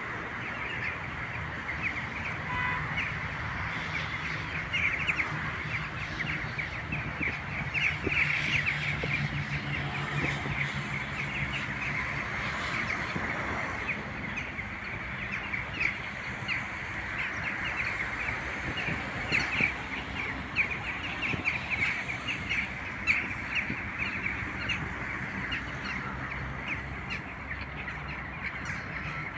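A flock of birds calling together: a dense, continuous chatter of many short high chirps.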